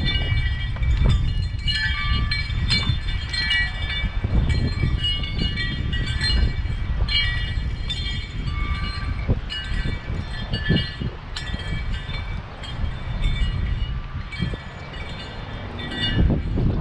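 Strong wind buffeting the microphone, a steady low rumble, with many short, high chirping tones scattered over it.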